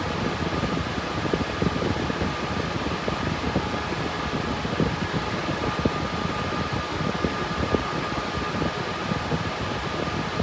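The cooling fans of a 3060 Ti GPU crypto-mining rig running steadily under load: a constant rush of air with a thin, steady whine on top.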